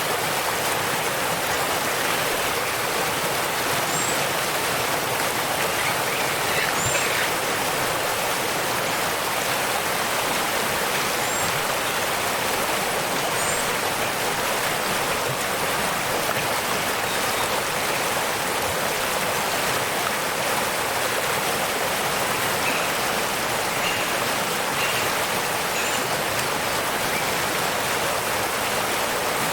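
Steady rushing of a waterfall, an even wash of falling water. A few faint, short, high chirps of birds sound over it now and then.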